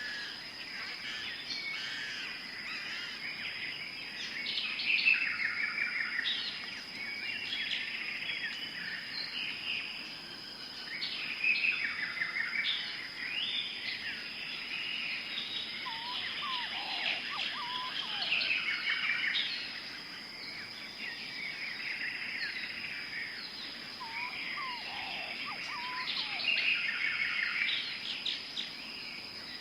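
Tropical forest ambience: many birds chirping and calling in overlapping bursts over a steady high-pitched drone. A lower, separate call comes twice, once about halfway through and once near the end.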